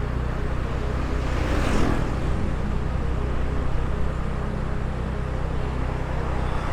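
Motorbike riding along a street: steady engine hum and road and wind noise on the microphone, with a brief swell of rushing noise between one and two seconds in.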